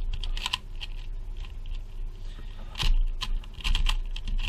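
Plastic 2x3x3 cuboid twisty puzzle being turned quickly by hand, its layers clicking and clacking in an irregular run of short snaps, the loudest about three seconds in.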